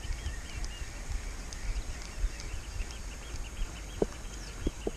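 Small birds chirping over and over, with wind rumbling on the microphone and a few short clicks about four seconds in.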